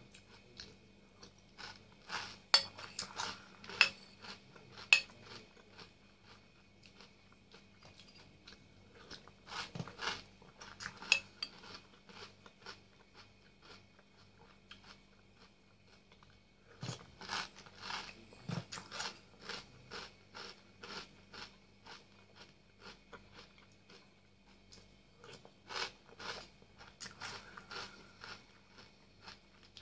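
Close-up crunching and chewing of Nesquik chocolate cereal balls in milk, in about four bouts a few seconds apart, with a few sharper clicks of the metal spoon against the bowl.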